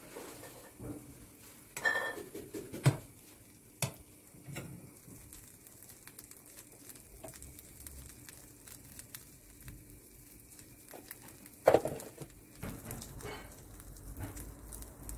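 Kitchen handling sounds: dishes and utensils clinking and knocking at irregular moments, with a ringing metallic clink about two seconds in and the loudest knock near the end.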